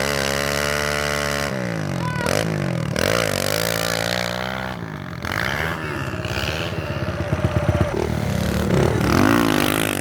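Pit bike engine revving: held at high revs at first, then the pitch drops and climbs again several times as the throttle is worked.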